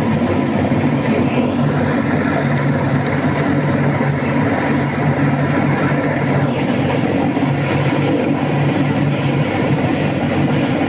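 Mil Mi-26 heavy helicopter running, its rotor and turbine engines making a loud, steady noise.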